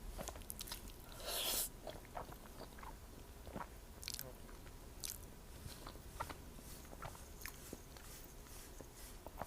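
Close-miked mukbang eating: a loud bite about a second and a half in, then chewing with scattered small wet clicks.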